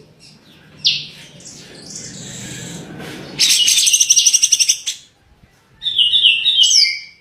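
Songbird singing: a sharp single note about a second in, a loud, very fast, high trill lasting about a second and a half, then a run of descending notes ending in a falling whistle near the end.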